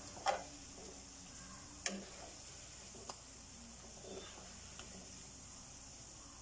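Battered cauliflower florets sizzling softly in hot coconut oil while a wire mesh skimmer scoops them out. A few sharp metal clicks of the skimmer against the pan: the loudest about a third of a second in, another near two seconds and a smaller one around three seconds.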